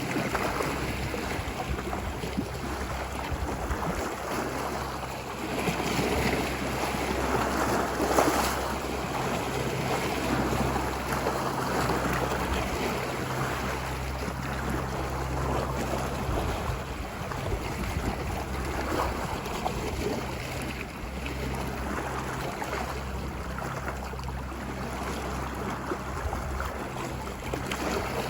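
Ocean waves washing ashore, a continuous rushing wash that swells and eases, loudest about eight seconds in, with a steady low rumble under it.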